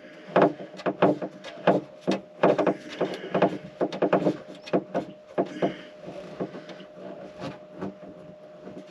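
A screw being driven in with a hand tool: a quick run of irregular sharp clicks and knocks, thinning out over the last few seconds.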